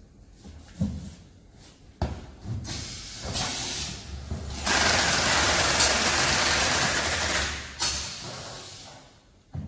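Packaging machine cycling: a few knocks, then a motor hum under a loud, even hiss of air for about three seconds, cut off by a knock.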